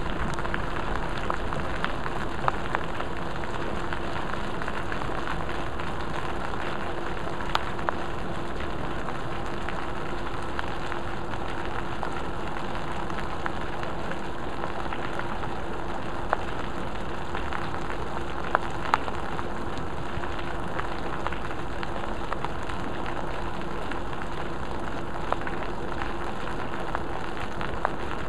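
Monsoon rain falling steadily onto a backyard pool and paving, with a few scattered sharp taps from drops landing close by and a faint steady low hum underneath.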